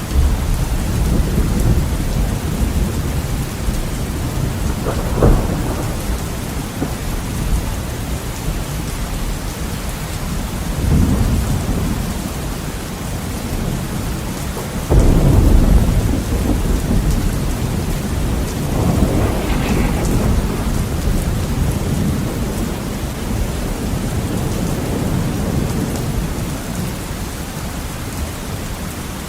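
Heavy rain on a window, a steady hiss throughout, with thunder over it: low rolling rumbles that swell and fade several times, the loudest about halfway through, and a sharp crack about five seconds in.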